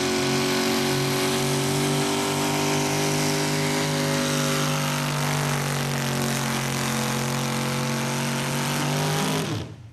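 Light four-wheel-drive pulling truck's engine held at full throttle under load, its pitch steady and easing down slightly, then the throttle is cut near the end and the engine winds down quickly.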